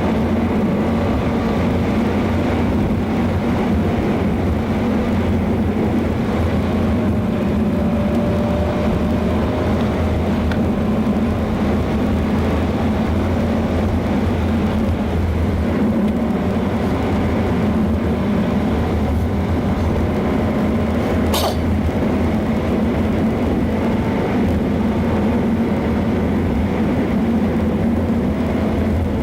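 Mazda MX-5 race car engine running steadily, a constant low drone with faint engine tones slowly rising and falling.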